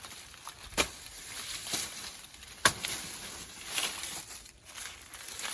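A few sharp knocks over a faint outdoor background. Two loud ones come about two seconds apart, with fainter ones between and after.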